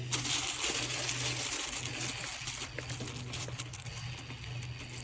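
Mountain bike rolling downhill on a dirt and gravel trail: a steady hiss of tyres and rushing air, loudest in the first few seconds, with scattered small clicks of grit and stones.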